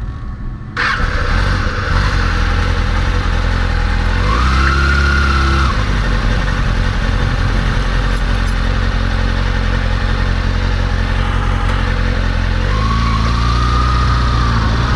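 Motorcycle engine running, suddenly louder about a second in. Its revs rise briefly about four seconds in and rise again near the end.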